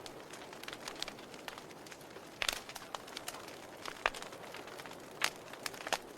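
Wood fire in a fireplace crackling: many small sharp pops and snaps over a soft hiss, with three louder pops spread through.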